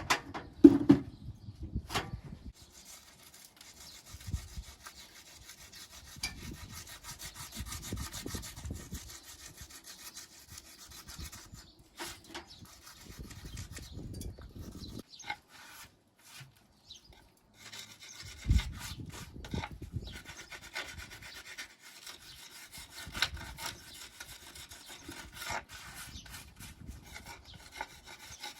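A hand tool scraping and rubbing along the mortar joints of a stone wall, in long spells with short pauses, with a few knocks, the loudest near the start and at about 18 seconds in.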